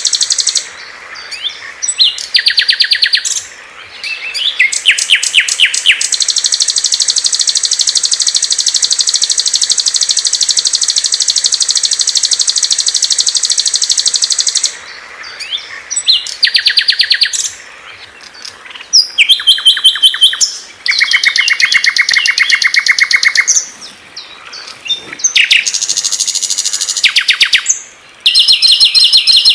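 Small songbirds singing loud, high-pitched rapid trills and chirps in phrases, including one long unbroken trill lasting about nine seconds from about six seconds in.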